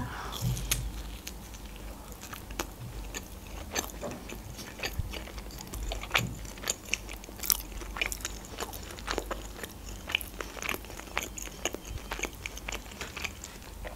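A woman biting into and chewing a slice of meat pizza close to the microphone: irregular crunches and small clicks of the crust as she chews.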